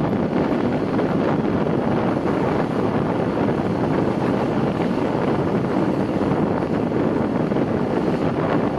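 Steady wind rush on the microphone mixed with road noise from travelling along a road, holding at an even level throughout.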